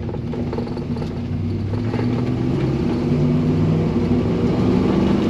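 Chevy C-10 pickup engine pulling under acceleration, heard from inside the cab, its pitch stepping up and its sound growing louder.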